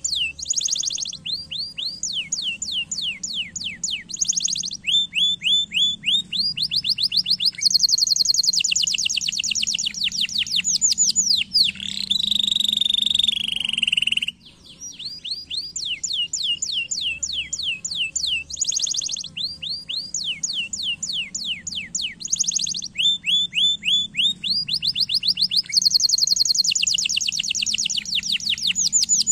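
Canary singing: fast trills of rapidly repeated downward-sweeping notes that switch to a new pattern every second or two, with a lower rolling trill near the middle. After a brief break about halfway through, the same song sequence repeats.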